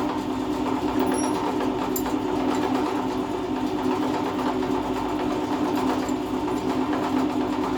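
A small motor running steadily with a constant, even hum that holds its pitch throughout.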